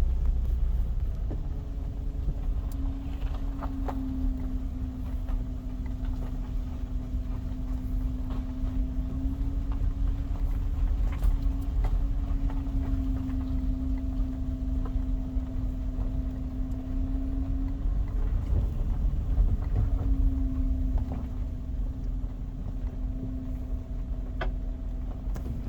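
Steady mechanical hum over a low rumble, holding one pitch that wavers slightly, with a few faint clicks.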